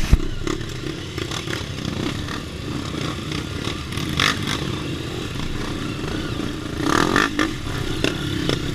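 Dirt bike engine running while riding a trail, with scattered clattering knocks throughout and a cluster of them about seven seconds in.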